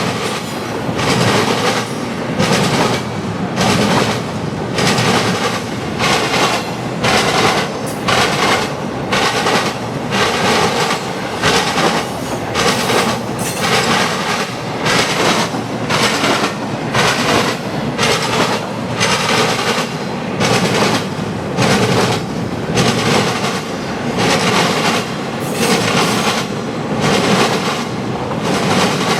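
Freight train cars rolling past, the wheels clacking over the rail joints in an even, repeating rhythm of roughly one cluster of clacks a second, over a steady rolling rumble.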